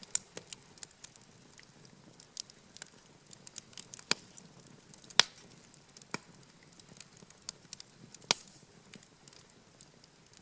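Wood campfire crackling: irregular sharp pops and snaps, the loudest one about halfway through.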